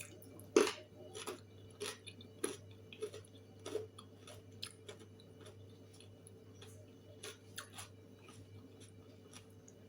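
Soft, irregular clicks and smacks of someone eating, about one every half second at first and sparser later, over a steady low hum.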